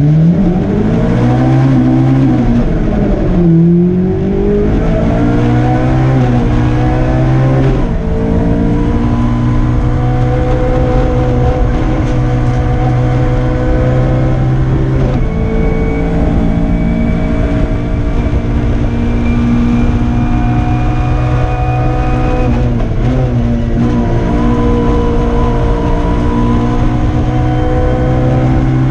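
Nissan Micra kit car's engine, heard from inside the cabin, pulling hard through the gears. It revs up, drops sharply at a shift about three and a half seconds in and again at about eight seconds, then holds high revs with further gear changes around fifteen and twenty-four seconds in.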